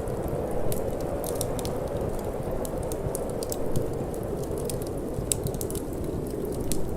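Wood fire in a fireplace crackling, with frequent irregular sharp pops and snaps, over a steady low rush of wind.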